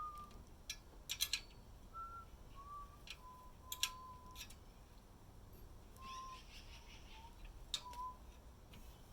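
A string of short, soft whistled notes near one pitch, some gliding slightly up or down, with scattered sharp clicks and taps. A brief higher chirping sound about six seconds in.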